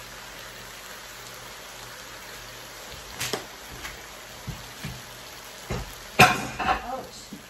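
Vegetables sizzling steadily in a hot cast-iron wok. From about three seconds in come a run of sharp knocks and clatters, the loudest about six seconds in.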